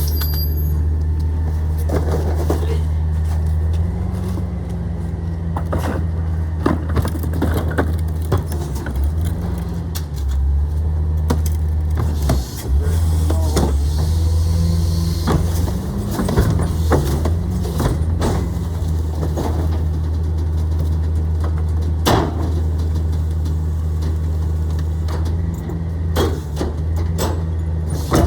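Garbage truck's diesel engine running steadily, its pitch shifting a little now and then, with scattered clanks and knocks throughout.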